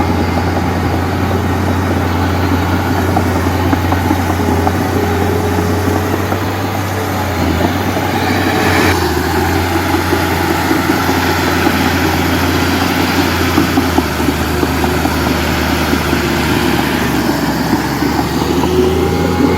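Heavy diesel engine running steadily under work, with a deep constant hum. Its note shifts a little about halfway through.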